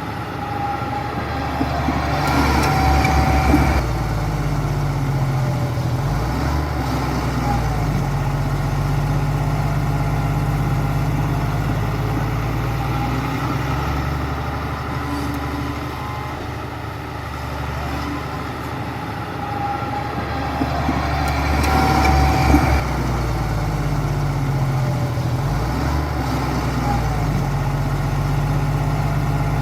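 Heavy diesel engine of a bulldozer running under load, its note shifting up and down as the machine works. It swells louder twice, about two seconds in and again about twenty-two seconds in.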